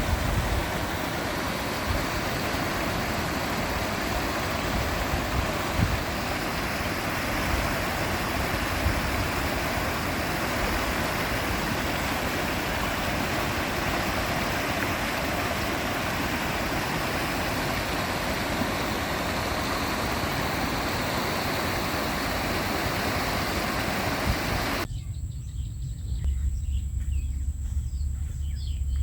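Steady, loud rush of flowing water, an even hiss with no rhythm. About 25 s in it cuts off abruptly to a much quieter outdoor sound with a low wind rumble on the microphone and faint insect chirps.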